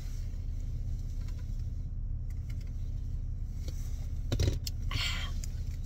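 Steady low hum of a car idling while parked, heard from inside the cabin, with a single knock about four and a half seconds in and a brief rustle just after.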